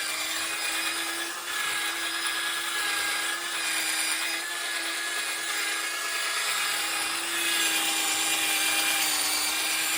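A small electric power tool running steadily with an even hum, polishing an oxidized motorcycle fork leg with metal polish.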